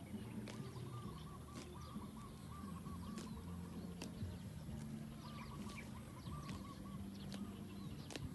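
Birds calling in bouts of quick, repeated short notes over a low steady hum, with a few sharp clicks.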